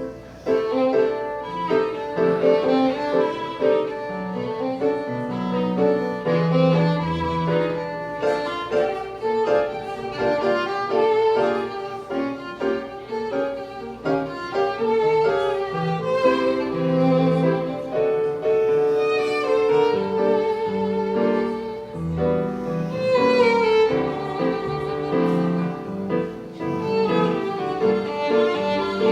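Violin playing a melody over piano accompaniment.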